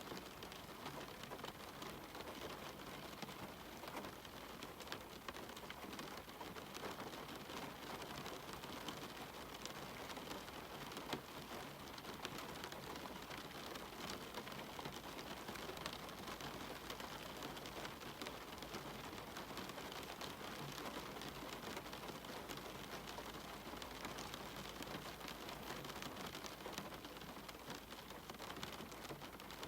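Steady rain falling: an even hiss dotted with many small, close drop ticks.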